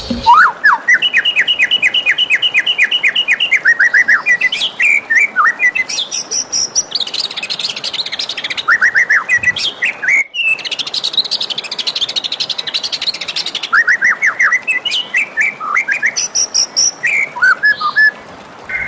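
White-rumped shama (murai batu) singing: fast runs of repeated whistled notes and trills, with the song breaking off briefly about ten seconds in.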